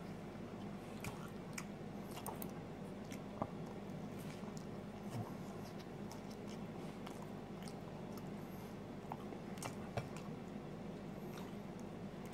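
A person quietly biting and chewing a slice of deluxe pizza, with scattered small mouth clicks and squishes over a steady low hum.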